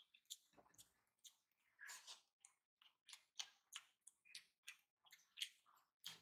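Quiet, close-miked eating sounds: wet mouth clicks and smacks from chewing rice and fish, about three a second at an uneven pace, with the soft squish of fingers mixing rice on a plate.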